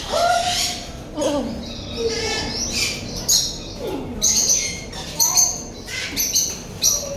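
Several parrots squawking and screeching in a series of short, shrill calls, mixed with a few lower sliding calls.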